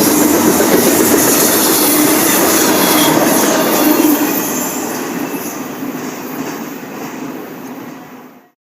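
Norfolk Southern freight train rolling past, with a steady rumble of wheels on the rails. It fades from about four seconds in and cuts off just before the end.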